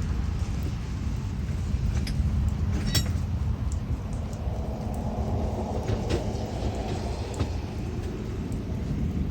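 Rain falling under a long, low rumble of thunder, with scattered sharp drips tapping throughout.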